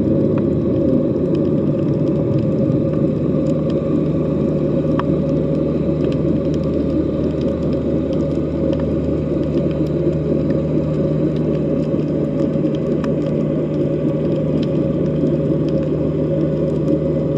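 Underwater sea ambience: a steady low rumble and hum, with faint scattered clicks above it.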